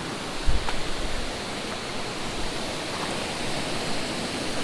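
Steady rushing of a creek waterfall, with a few low thumps in the first second or so.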